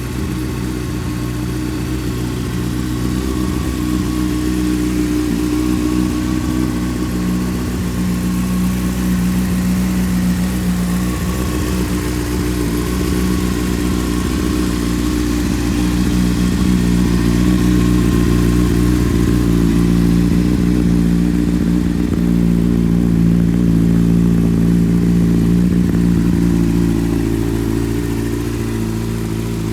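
2006 Honda CBR600RR's inline-four engine idling steadily through an aftermarket Micron exhaust, a little louder for a stretch in the middle, settling slightly lower near the end.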